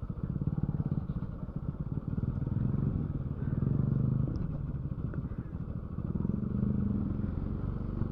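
Motorcycle engine running under way, a steady rapid pulse of firing strokes that swells a little in level about halfway through and again near the end.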